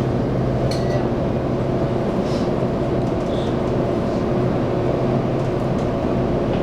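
Taiwan Railways EMU800 electric multiple unit running at steady speed, heard from inside the passenger car: a constant rumble with a steady hum of several held tones.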